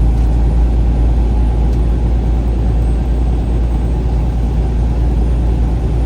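Steady low rumble of a vehicle driving at road speed: engine and tyre noise with no revving or gear changes.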